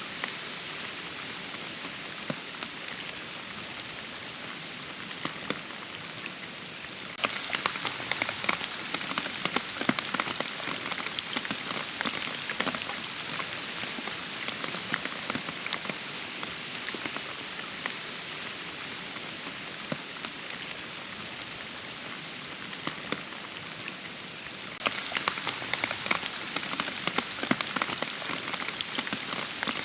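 Rain falling steadily, a dense patter of many individual drops. It suddenly grows heavier about a quarter of the way in, and again near the end.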